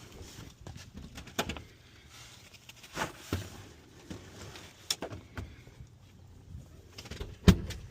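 A handful of separate knocks and clunks, like things being handled or set down, spaced a second or two apart, the loudest near the end.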